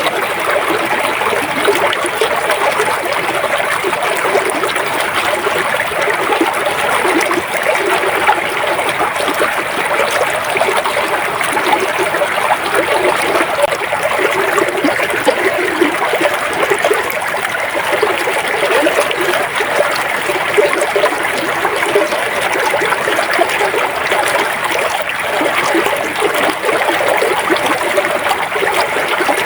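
A river flowing steadily.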